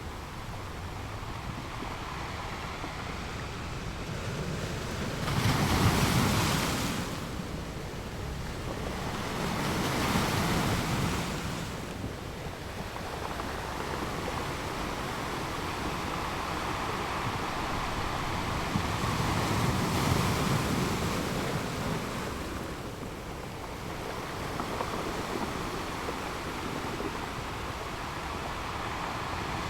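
Ocean waves rolling in and breaking on a shore, with surges of surf about six and ten seconds in and a softer swell near twenty seconds, over a steady wash of water and some wind.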